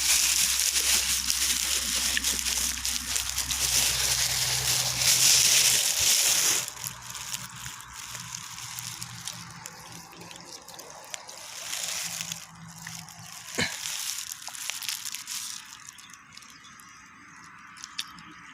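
Water running and splashing, loudest for the first six or seven seconds, then quieter with a few brief swells and a sharp click near the end.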